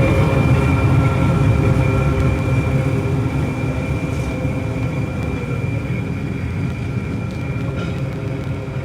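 Trieste–Opicina electric tram running, a steady low hum with several held tones, slowly fading.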